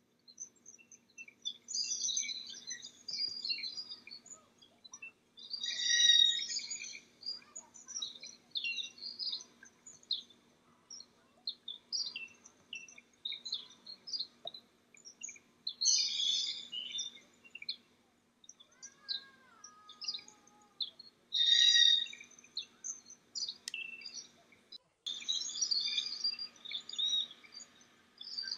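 Small birds chirping and twittering in repeated short bursts, the loudest about 6, 16 and 22 seconds in, over a steady low hum.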